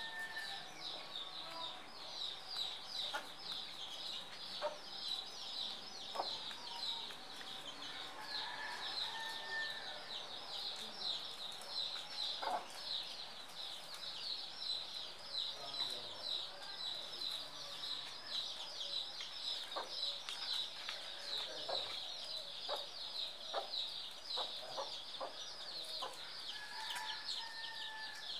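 Many small birds chirping together in a dense, continuous high chatter, with a few lower drawn-out calls and scattered faint clicks.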